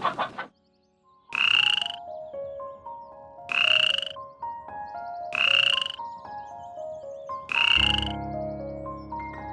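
An animal calling four times, about every two seconds, each call about half a second long, after a short rapid stutter of pulses at the very start. Soft mallet-like background music plays underneath.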